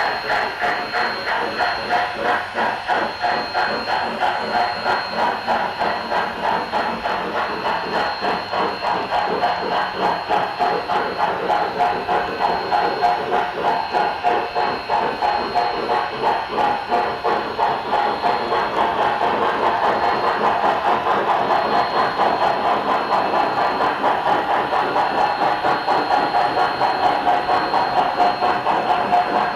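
Sound decoder in an HO scale model steam locomotive playing steady, rhythmic steam exhaust chuffs through its onboard speaker, growing gradually louder, with a thin steady high tone throughout.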